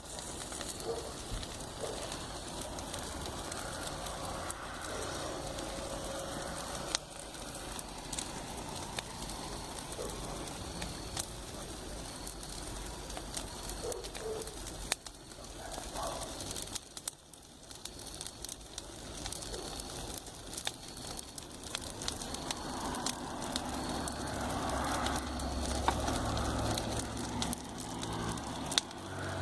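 Campfire crackling, with scattered sharp pops of burning wood. From about two-thirds of the way in, a low rumble of a vehicle on the road builds up and grows louder toward the end.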